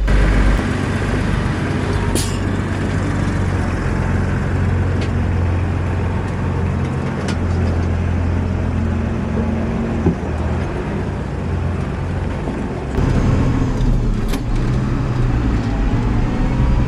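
Farm tractor engine running steadily under work, a constant low drone that gets louder about three-quarters of the way through.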